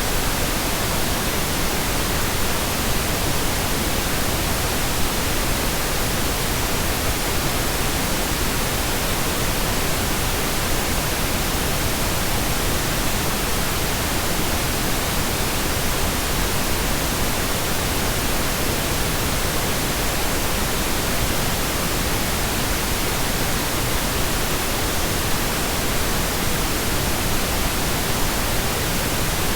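Pink noise: a steady, even hiss spread across all pitches, with no change in level.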